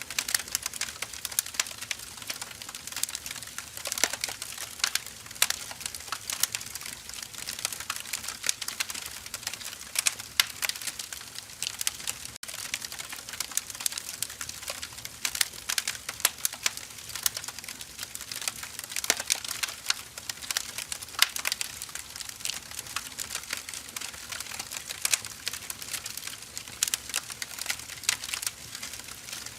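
Firewood burning in a fire, crackling steadily with dense, irregular pops and snaps over a soft hiss.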